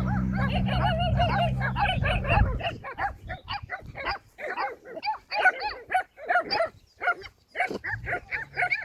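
A rapid chorus of many overlapping animal calls: short, sharp, pitched cries following one another. Under them a low steady hum stops about two and a half seconds in.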